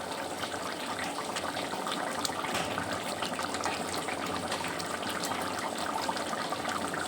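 Thick chicken kasha sizzling and bubbling in the pan: a steady hiss with fine crackling, the gravy cooked down almost dry.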